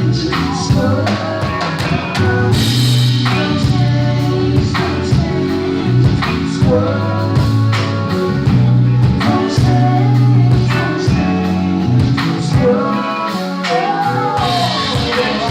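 Live band playing a slow soul groove, with drum kit, bass line and guitar under a singer's vocal lines.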